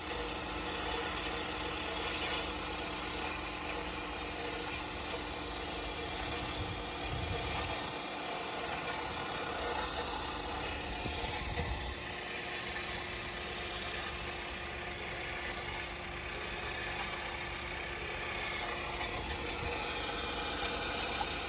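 Daihatsu Hijet Truck running steadily, with short high squeaks coming and going over it: the abnormal noise that is being tracked down.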